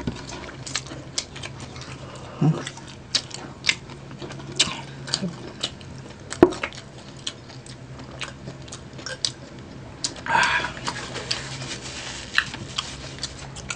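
Close-miked eating of crispy pata (deep-fried pork leg): chewing, with many short sharp clicks and crunches scattered throughout and a louder noisy stretch about ten seconds in.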